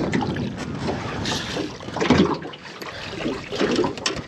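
Water splashing and trickling in uneven spurts, loudest about two seconds in.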